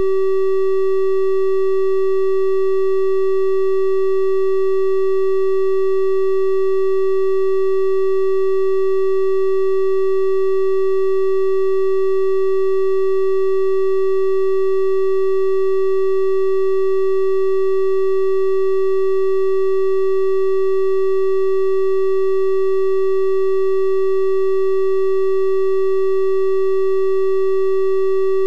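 Synthesized 384 Hz triangle-wave tone, held steady at one pitch and level, with faint higher overtones above the main note.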